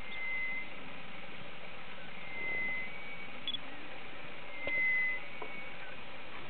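A bird calling a short, flat, high whistle four times, about every two and a half seconds, over a steady background hiss.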